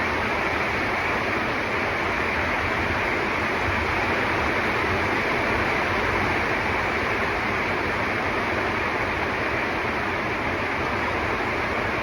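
Heavy, torrential rain falling, a loud steady rush with no breaks.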